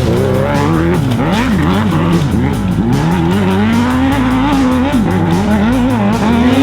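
A vehicle engine revving hard, its pitch rising and falling over and over with the throttle.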